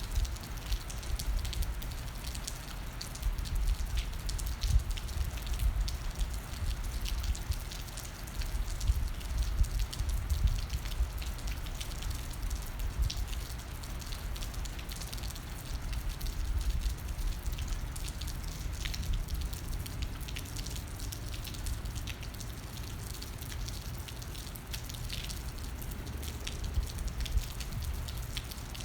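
Steady rain falling, with many small irregular drop ticks hitting surfaces close to the microphone, over a low rumble.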